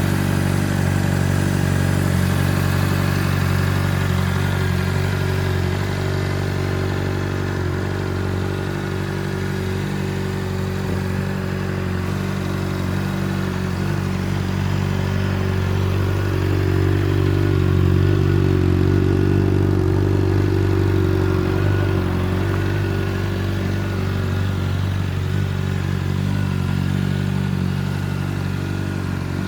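Honda CBR600RR's inline-four engine running steadily at idle.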